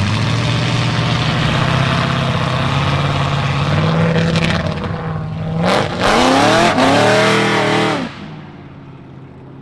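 A car engine running loudly at a steady low speed, then revved hard about six seconds in, its pitch climbing and falling over a couple of seconds before cutting off sharply near the end.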